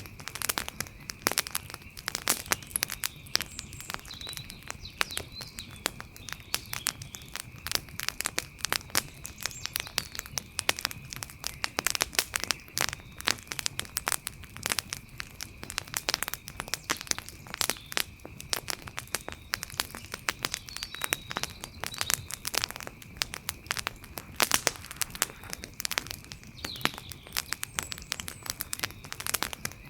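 Wood fire crackling: a dense, irregular run of sharp pops and snaps, over a steady high-pitched drone.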